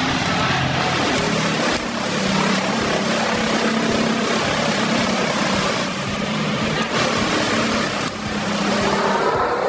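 Heavy machinery engine running steadily, with brief dips in level about two, six and eight seconds in.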